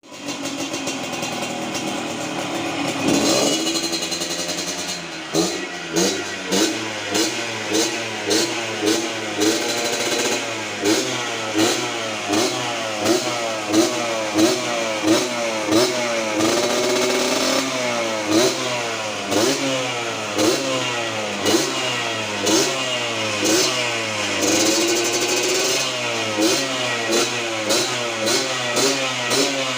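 Yamaha DT100 enduro with a Yamaha RX Special two-stroke single-cylinder engine, running and being revved. After about five seconds of fairly steady running, the throttle is blipped again and again, nearly twice a second, the engine note rising and falling with each blip.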